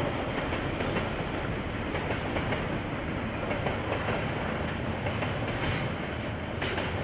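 A KiwiRail train rolling past with a steady clatter of wheels on the rails, heard through a security camera's microphone.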